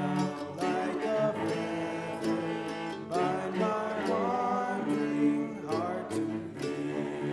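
Live acoustic music: strummed acoustic guitar under a wavering melody line.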